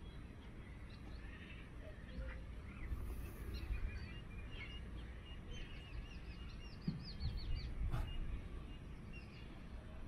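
Wild birds calling and chirping in scattered short notes over a steady low rumble, with a quick run of about seven short chirps around seven seconds in. A sharp click comes about eight seconds in.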